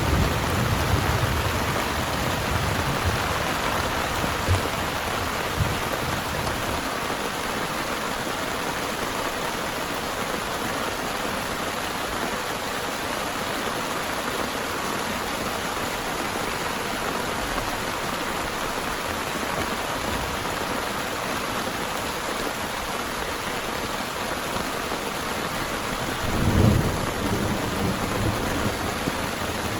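Heavy rain falling steadily, with a low thunder rumble dying away at the start and another short rumble of thunder near the end.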